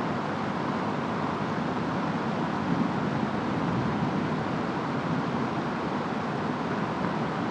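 Steady storm noise of wind and rain, a continuous even rumbling hiss with no distinct thunderclap.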